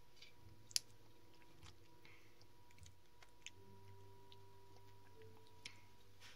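Faint chewing of a powdery milk chocolate sweet, with a few soft clicking mouth sounds, the sharpest about a second in.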